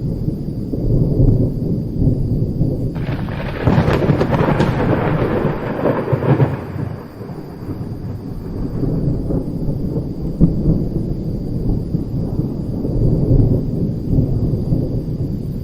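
Thunder rumbling low and continuously, with a sudden sharp thunderclap about three seconds in that rolls on for several seconds before dying back to the low rumble.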